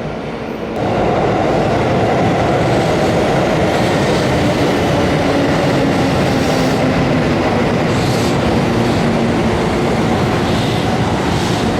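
Hanshin Main Line electric train running alongside the platform, close by. Its sound comes in suddenly about a second in and stays loud and steady.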